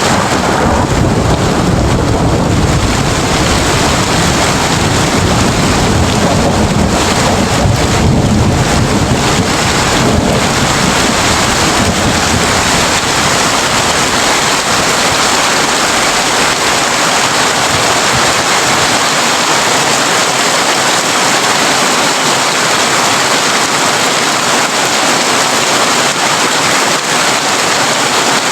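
Heavy rain drumming steadily on a tin roof. A low rumble of thunder starts at the outset and fades away over roughly the first half.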